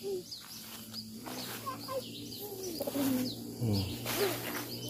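Wild birds chirping and calling: many short, high chirps, with some lower sliding calls.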